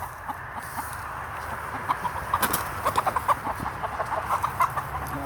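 Hens clucking, with a quick run of short clucks from about two seconds in: the alarm calls of agitated hens being chased for catching.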